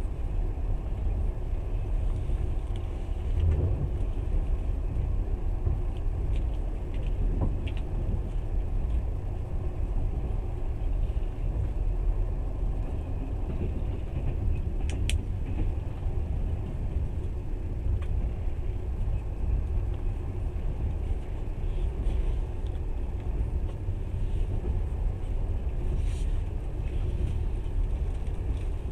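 Steady low rumble of a passenger train running along the track, heard from inside the carriage, with an occasional faint click.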